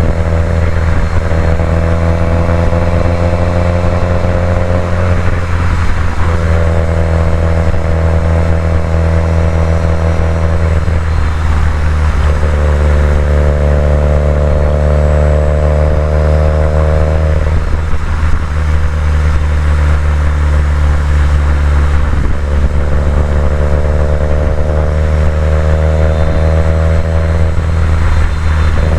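2018 Subaru WRX STI's engine and exhaust running steadily while driving, with a deep note that holds its pitch. A higher tone above it drops away and returns several times.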